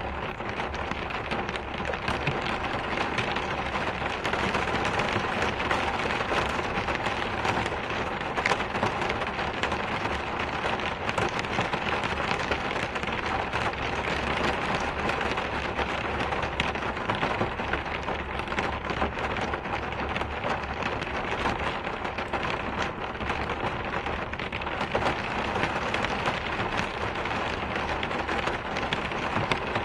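Steady rain falling on a surface, a dense even patter of drops with no pauses.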